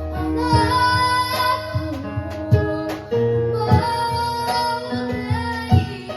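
A child singing held, wavering notes over a band of keyboard and drums, with regular drum hits.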